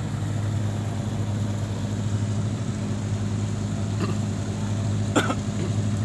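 Fishing boat's engine running steadily with a constant low hum. About four seconds in there is a short knock, and about a second later a louder clack.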